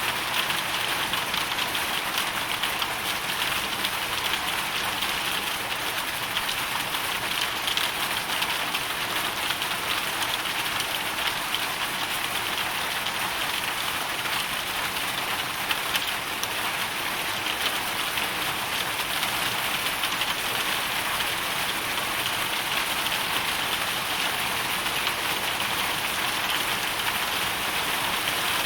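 Hailstorm: a dense, steady patter of hailstones and rain striking a surface.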